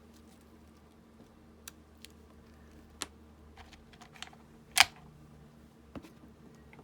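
Sparse light clicks and taps of small craft items, such as rubber stamps, being picked up and set down on a work table, with one sharper click a little before five seconds in. A faint steady hum sits underneath.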